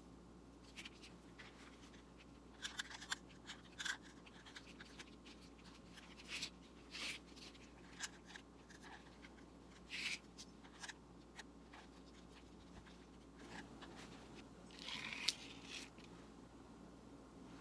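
Quiet, scattered small clicks, scrapes and rustles of objects being handled, irregular and a second or so apart, with a longer scratchy rustle near the end.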